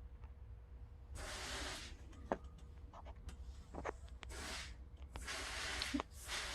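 A sprayer hissing in three short bursts, with a few faint clicks between them.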